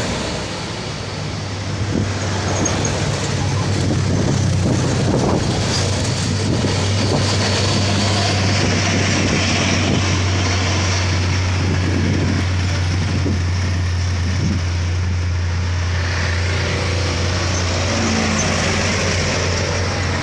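Diesel engine of a container truck running at low, steady revs as it crawls slowly up a steep bend, a constant low drone with road noise over it.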